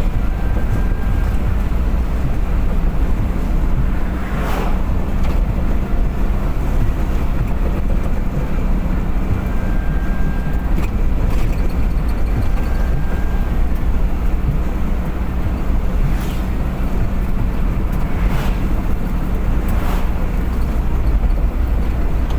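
A motor vehicle travelling at speed on the highway: a steady low rumble of engine and road noise with a faint steady hum, and a few brief louder rushes along the way.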